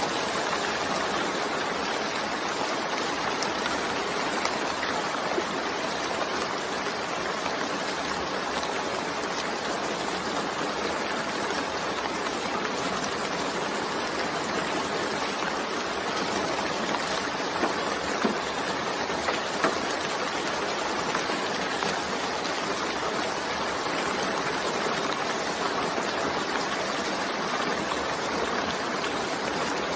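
Steady rain falling: an even, continuous hiss with a few slightly louder drop ticks scattered through it.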